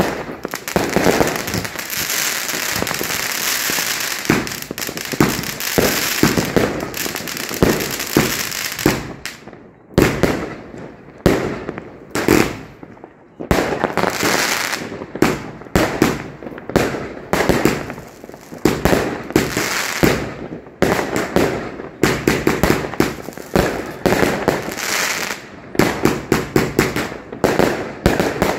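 Fireworks and firecrackers going off. The first several seconds are a dense, crackling barrage of bangs; after that come many separate sharp bangs in a rapid, irregular series.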